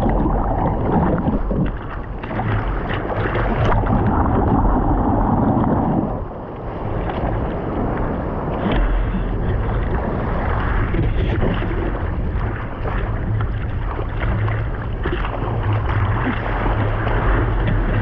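Ocean water and wind noise on the microphone in the surf, a continuous rushing with a low rumble that dips briefly partway through.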